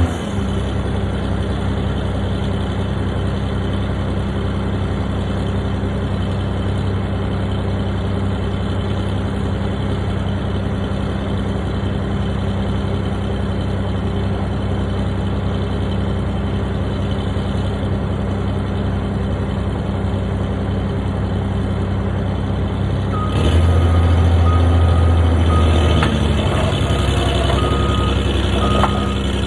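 A heavy construction machine's engine running steadily. Near the end the engine gets louder and a reversing alarm starts beeping at an even pace.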